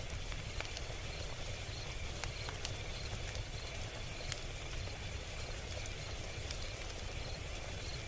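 Log fire crackling: scattered sharp snaps over a steady hiss and low rumble.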